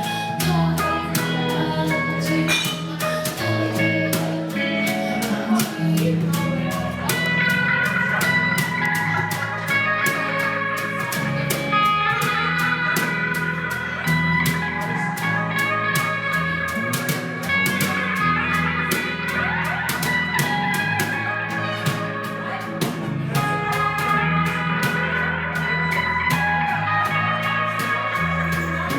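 A live jazz band plays an instrumental passage, with guitar lines to the fore over bass and a steady drum and cymbal pulse.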